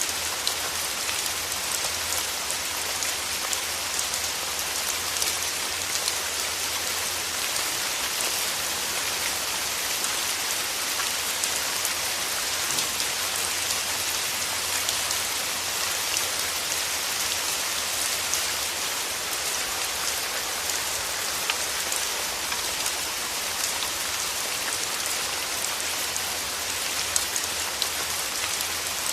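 Steady rain falling through forest trees: an even hiss with many individual drops ticking on leaves.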